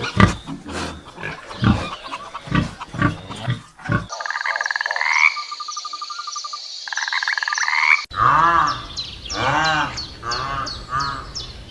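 Animal calls in three cut-together segments: a run of short, rough calls for the first four seconds, then a trilling call with rising glides, then a series of repeated calls about once a second from about eight seconds in.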